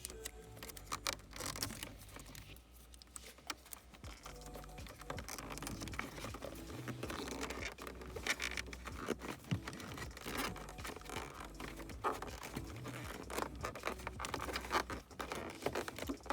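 Irregular clicks, scratches and rustling of hands working on car wiring and plastic interior trim, with occasional tearing sounds.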